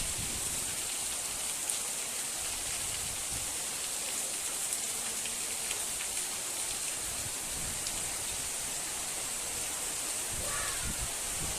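Heavy rain pouring down steadily: a dense, even hiss with scattered sharp ticks of drops striking.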